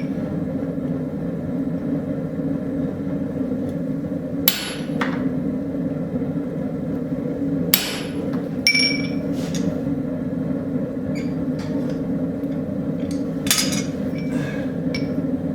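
Hammer blows on a punch, dotting the faces of a railroad spike handle: a handful of sharp, widely spaced metal strikes, one ringing briefly. A steady low drone runs underneath.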